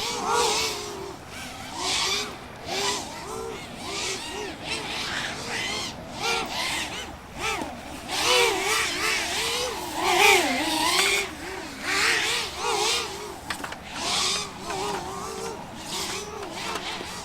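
Racing hexacopter drone's electric motors and propellers buzzing like a swarm of angry wasps, the pitch wavering up and down rapidly as the throttle changes, swelling and fading every second or two as it flies past.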